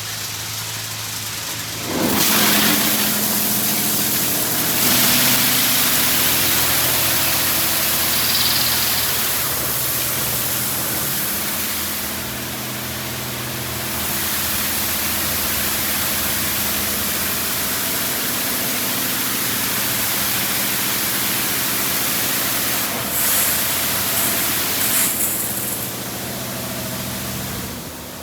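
Touch-free automatic car wash spraying high-pressure water onto a car, a loud steady hiss that starts about two seconds in, dips briefly midway and eases off near the end, with a steady machine hum underneath.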